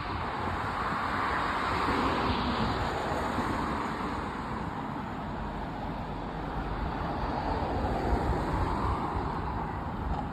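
Outdoor ambient noise: a steady rushing that swells and fades slowly, with wind buffeting the microphone.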